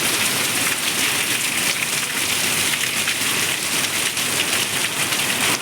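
Heavy rain pouring down steadily, a dense hiss of countless drops striking surfaces.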